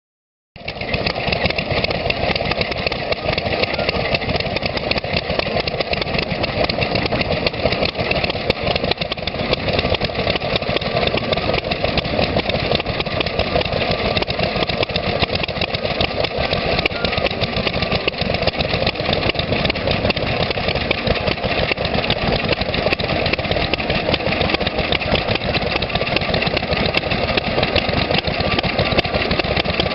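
Vintage stationary engines running steadily, a fast even run of exhaust beats; the sound cuts in abruptly about half a second in.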